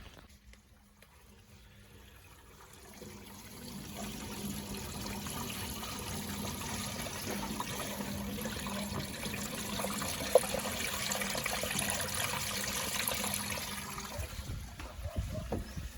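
Backhoe loader engine running with a steady hum, under a rushing noise that builds from about three seconds in, with one sharp knock about ten seconds in.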